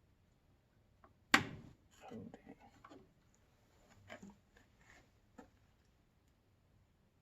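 A single sharp click of hard computer parts being handled, about a second in, then low muttered speech and a few lighter clicks and taps.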